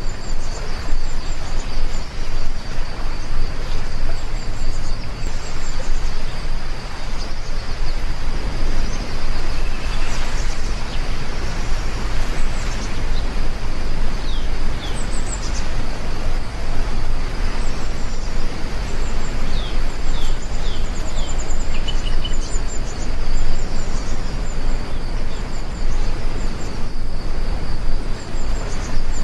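Heavy rain falling steadily as a dense, even hiss, with birds chirping in short high calls throughout and a steady thin high tone running under them.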